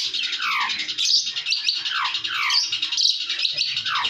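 A bird calling: a string of loud falling notes, about two a second, over a dense high chattering.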